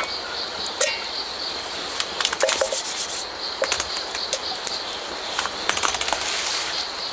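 Autumn crickets chirping in a steady, pulsing trill, with scattered sharp clicks and rubbing sounds over it.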